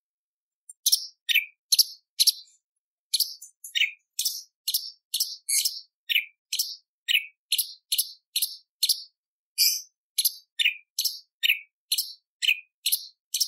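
Cucak cungkok leafbird calling in a fast run of short, sharp, high notes, about two a second, starting after a brief pause.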